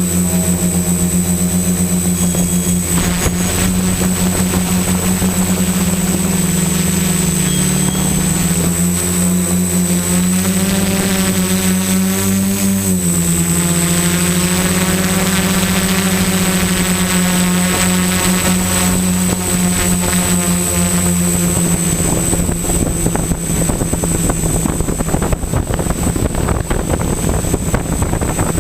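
Quadcopter's four electric motors and propellers buzzing in flight, a steady whine whose pitch dips and rises as the throttle changes. A rushing noise grows over the last few seconds.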